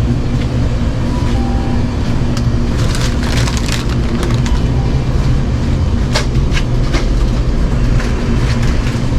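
A steady low hum, with scattered short clicks and crackles over it.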